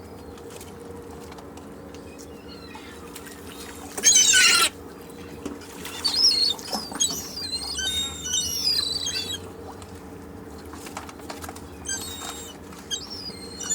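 Seagulls calling over a steady beach background: one loud cry about four seconds in, then a run of shorter, wavering cries for a few seconds, with a few more calls near the end.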